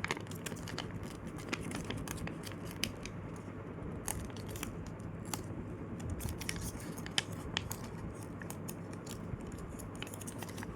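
A sheet of paper being folded and creased by hand, with scattered small crinkles and clicks, over a faint steady low hum.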